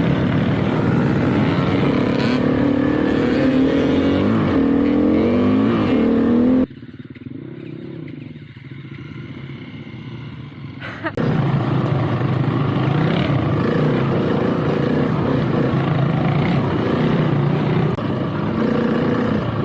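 Dirt bike engine running under way, its pitch rising and falling as the throttle is worked. About seven seconds in the sound drops abruptly to a quieter, muffled engine for about four seconds, then the loud engine sound returns.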